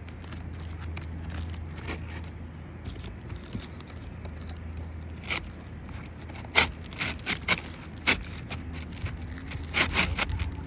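Scraping and handling noises from work on asphalt roof shingles, with a series of sharp clicks and taps in the second half over a low steady hum.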